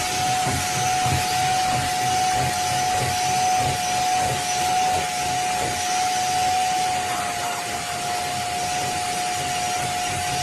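Small 450W upholstery wet-vacuum cleaner running, a steady motor whine over the hiss of suction.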